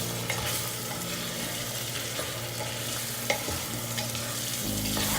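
Brinjal, tomato and spice masala sizzling in hot oil in a pan while it is stirred, with a few light clicks of the utensil against the pan.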